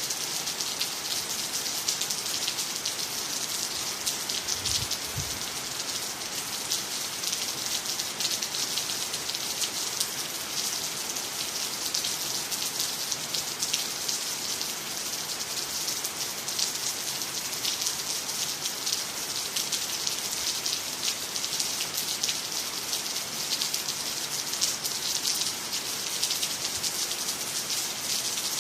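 Steady rain falling on water, trees and the ground, a dense even hiss with many small drop ticks. A brief low rumble comes about five seconds in.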